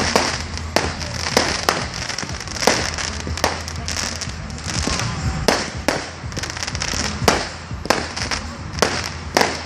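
Firework display: sharp bangs about once a second over continuous crackling.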